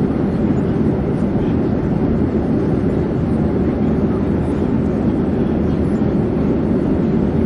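Airplane in flight: a steady, even low drone with no changes.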